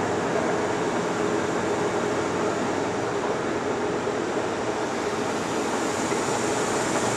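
Monarch 18 x 54 engine lathe running under power at a steady spindle speed: a continuous, even mechanical drone with a faint steady whine.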